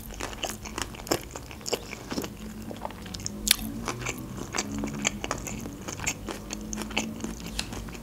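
A person chewing a mouthful of sushi roll close to the microphone: a run of irregular wet clicks and smacks, several a second, with one sharper click about halfway through.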